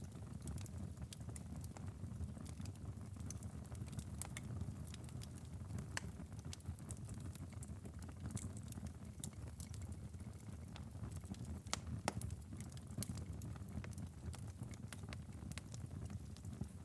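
Wood fire crackling in a fireplace: irregular sharp pops and snaps over a low, steady rumble, with one louder pop about two-thirds of the way through.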